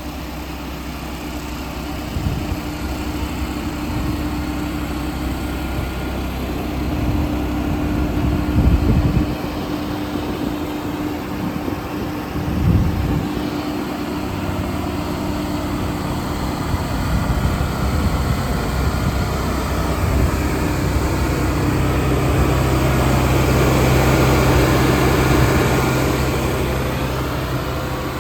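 Ford F550 truck engine idling steadily, with two brief louder surges partway through. In the last third the engine note steadies at a stronger, louder level.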